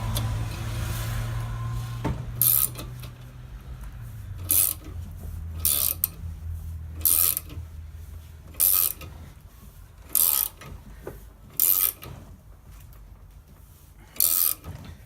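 A ratcheting hand tool worked in short strokes, about one every second and a half, as a grinder-nicked rear-differential bearing is slowly forced off its shaft, with a low steady hum under the first half.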